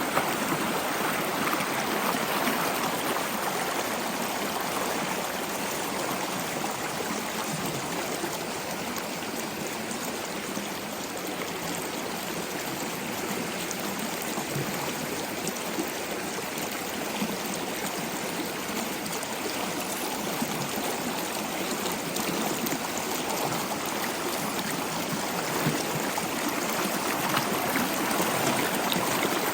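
Log fire crackling: a steady hiss with frequent small pops and snaps scattered throughout.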